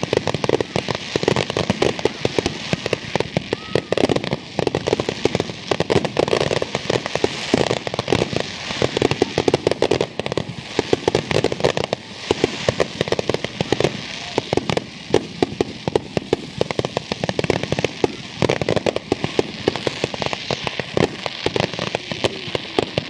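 Fireworks finale: aerial shells bursting in a rapid, continuous barrage of overlapping bangs, with heavier clusters every second or two.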